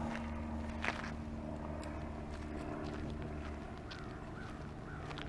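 Quiet outdoor ambience: a steady low hum, with a faint click about a second in and a few short, faint chirps near the end.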